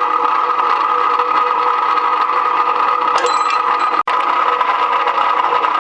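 Electric rebar-processing machine running steadily, a continuous motor and gear hum; the sound cuts out for an instant about four seconds in.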